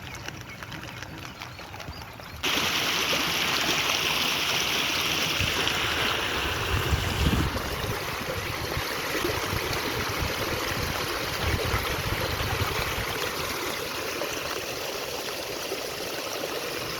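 Rushing water, a stream or run-off channel flowing steadily, which turns louder about two seconds in.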